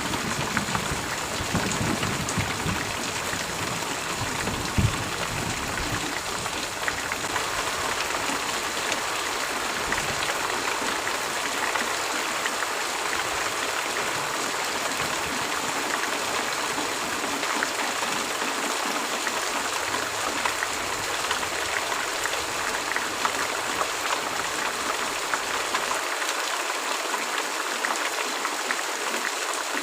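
Heavy rain falling steadily, a dense even patter. A low thunder rumble fades out over the first few seconds, with one short thump about five seconds in.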